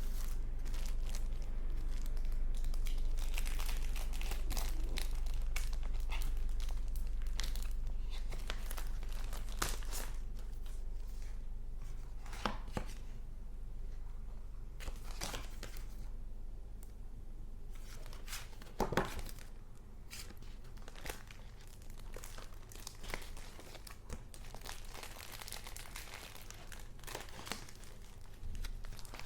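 Paper goods being handled: irregular crinkling and rustling of paper, with a few sharper taps, the loudest about two-thirds of the way through, over a steady low hum.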